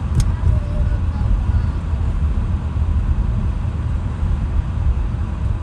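Steady low rumble of a car driving, heard from inside the cabin, with one short click about a quarter second in.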